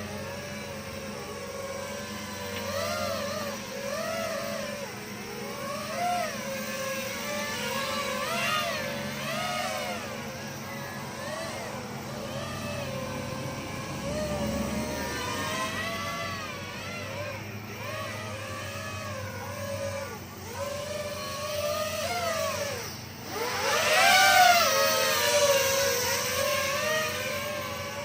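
Small quadcopter drone in flight, its propellers whining and the pitch wavering up and down as the throttle changes. A sharp burst of throttle a few seconds before the end is the loudest moment.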